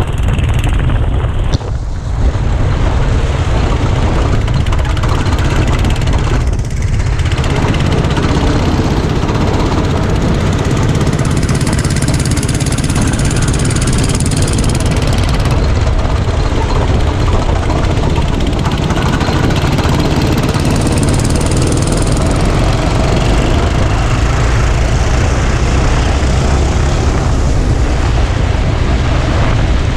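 Go-kart engine running steadily at speed, heard from an onboard action camera, with a brief dip in level about two seconds in.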